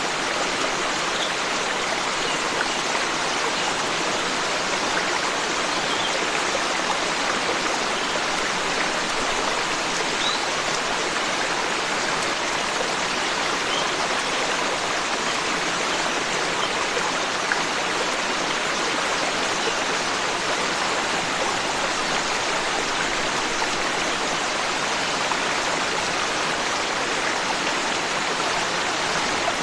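Forest stream rushing steadily over rocks, an even, unbroken water noise. A few faint, brief high bird chirps come through now and then.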